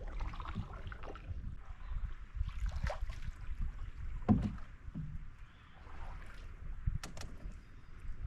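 Canoe being paddled: paddle strokes swishing through the water over a low rumble, with two sharp knocks about seven seconds in.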